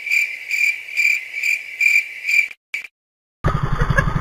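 Cricket-like chirping, a high tone pulsing about twice a second, that cuts off abruptly into dead silence. Near the end the boat's engine comes in, running loud and low.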